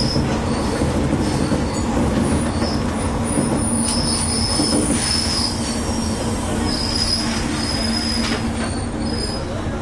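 Kamioka Railway diesel railcar running along the track, heard from the cab: a steady rumble of engine and wheels, with thin high wheel squeal coming and going several times as it rounds a curve.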